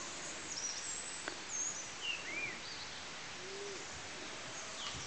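Birds calling with short, scattered chirps and whistles, some rising and some falling, over a steady hiss of outdoor ambience.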